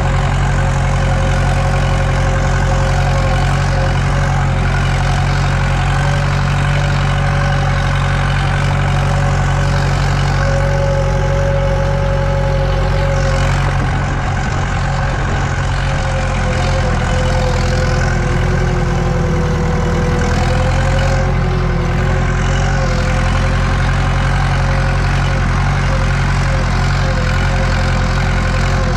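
Tractor diesel engine running steadily under load while pulling a cultivator, heard from inside the cab.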